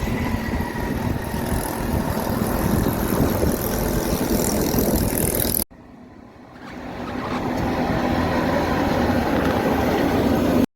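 Road vehicles driving past: a steady rush of engine and tyre noise that cuts off abruptly about halfway through, then grows louder again as another vehicle approaches.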